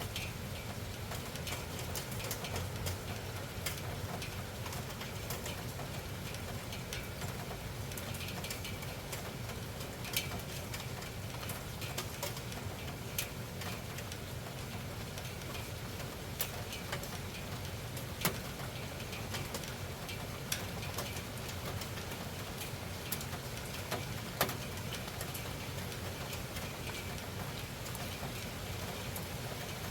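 Noisy night rain falling steadily: an even hiss scattered with sharp drop and drip hits on a hard surface, a few louder single hits about 10, 18 and 24 seconds in.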